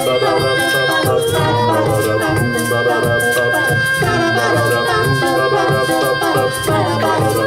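Live band playing the instrumental outro of a pop ballad, with a rattle keeping a steady beat over long held notes.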